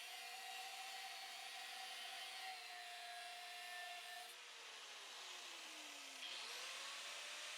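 Faint electric power-tool motor running with a steady whine; about four seconds in it winds down, then about six seconds in it starts up again and comes back to speed.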